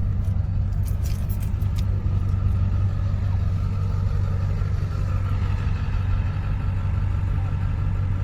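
A vehicle engine running steadily with a low rumble. A few sharp clicks come about a second in.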